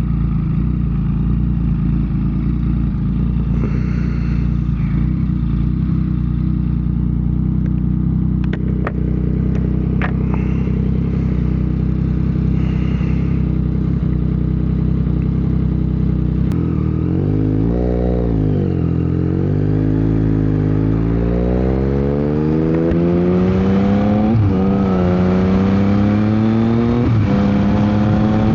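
Yamaha MT-09 SP three-cylinder engine through a Dominator GP aftermarket exhaust, running steadily at low revs, then blipping up and down once about two-thirds of the way in. It then pulls away with rising pitch, upshifting twice on the quick shifter with quick dips in pitch.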